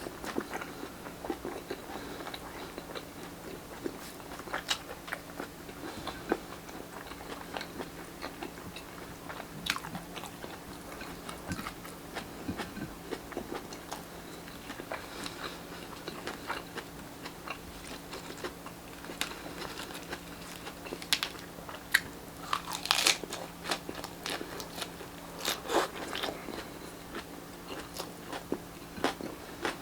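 Close-miked biting, crunching and chewing of grilled Filipino street-food barbecue, in irregular crisp crunches, the loudest a little past the middle. A faint steady hum runs underneath.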